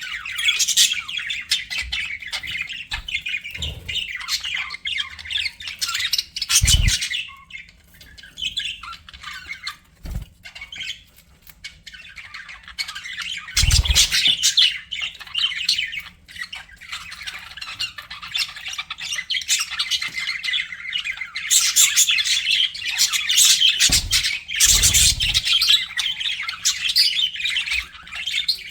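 Budgerigars chattering and squawking over each other in a dense, busy warble, thinning out for a few seconds about a third of the way in before picking up again. A few soft low thumps sound now and then.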